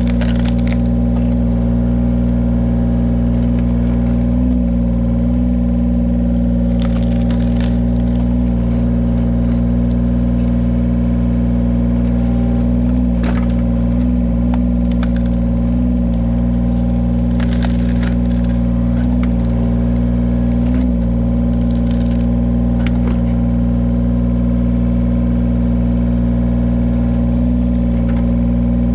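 Engine of a firewood-splitting machine running steadily under load, with short bursts of cracking and crackling as logs split, about four times.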